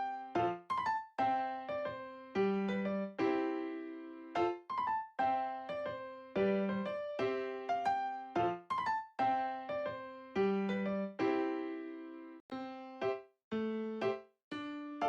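Background music: a light, bouncy keyboard melody of short, separate piano-like notes. No vacuum cleaner noise underneath.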